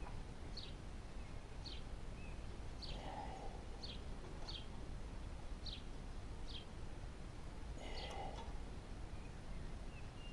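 A songbird calling repeatedly in short, high, descending notes, about one a second, over a low steady outdoor background.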